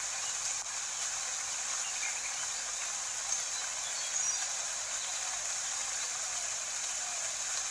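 Steady rain ambience: an even hiss of falling rain that holds constant throughout.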